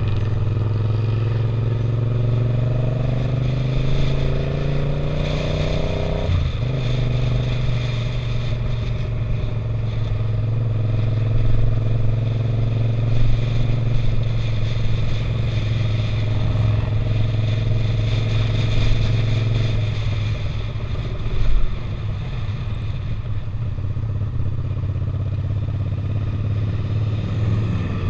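Suzuki SV650's V-twin engine under way, heard from a helmet camera. The revs climb for about the first six seconds, drop sharply at an upshift, then hold at a steady cruise.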